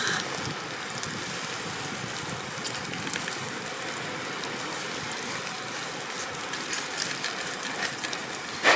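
Steak sizzling in a pan over a campfire: a steady hiss with scattered small pops.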